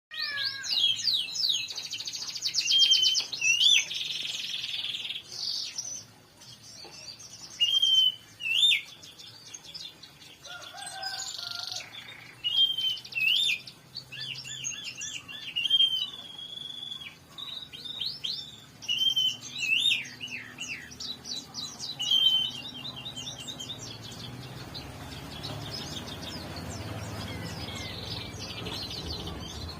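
Several songbirds singing and chirping at once, overlapping whistled phrases, rapid trills and sharp chirps from different birds. A faint low hum rises underneath near the end.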